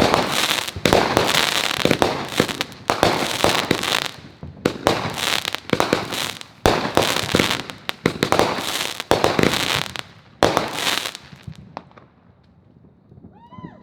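Consumer fireworks going off in a dense barrage of bangs and crackling, with two brief lulls, before stopping about eleven seconds in.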